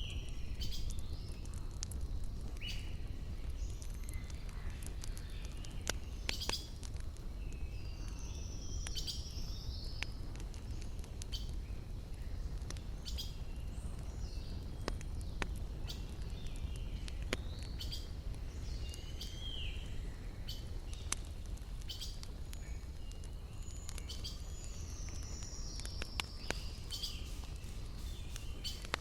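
Wood campfire crackling, with sharp pops scattered through it over a steady low rush, while small birds chirp and call repeatedly.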